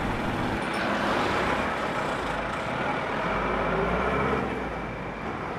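Road traffic on a town street: steady engine and tyre noise as vehicles pass, with a large vehicle rumbling by past the middle.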